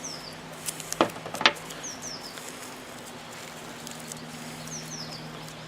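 A small bird chirping in short, high, falling notes, several times, often in pairs, over a steady low hum. Two sharp clicks, the loudest sounds, come about a second in.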